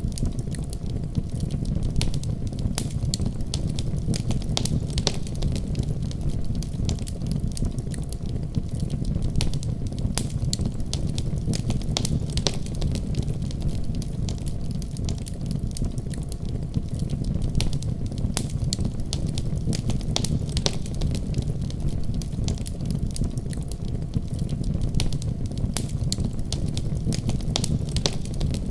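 Wood fire crackling in a fireplace: a steady low rumble of burning, with frequent irregular sharp pops and snaps of the wood.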